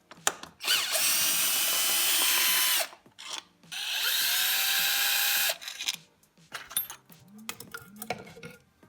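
Handheld power tool run twice for about two seconds each, its motor whine rising as it spins up and dropping as it stops, followed by light clicks and knocks of parts being handled.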